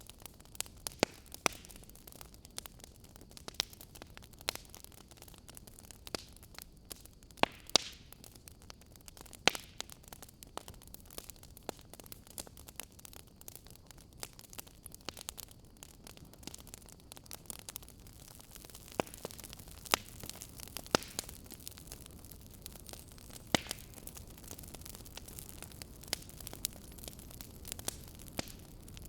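Fire crackling: irregular sharp pops and snaps, a few of them louder, over a soft steady hiss.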